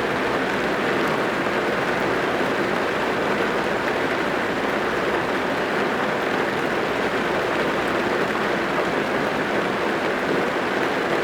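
Steady rain drumming on a car's roof and windows, heard from inside the cabin as an even, unbroken hiss.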